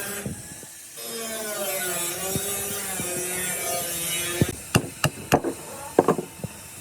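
A small motor or power tool running with a steady, slightly wavering pitch, cut briefly near the start. Then, over about two seconds, a handful of sharp knocks or clicks on hard material.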